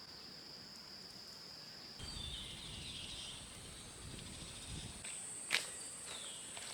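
Insects trilling steadily in a forest. About two seconds in, the chorus jumps to a higher pitch with some short chirps, and a sharp knock comes about five and a half seconds in.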